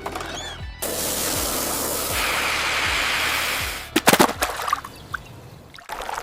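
Animated-cartoon sound effects over background music: a rushing, splashing noise for about three seconds, then a quick run of sharp knocks about four seconds in.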